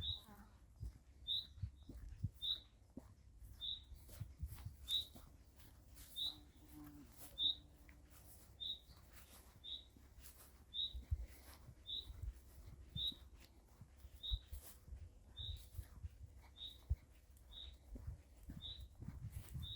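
A small bird repeating a single short, high call note about once a second, very evenly, over a faint low rumble and light scattered clicks.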